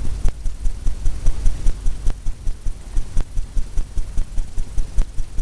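Fan brush loaded with oil paint scrubbing and tapping against a stretched canvas, a low even thumping about four times a second over a steady low hum.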